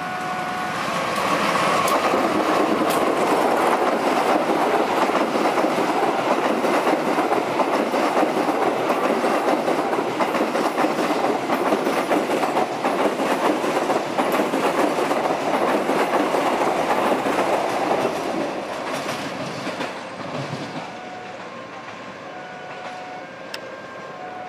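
Passenger train hauled by a CC-class diesel-electric locomotive passing at speed, its wheels rumbling and clattering on the rails. The sound builds over the first couple of seconds, stays loud, then fades away over the last several seconds.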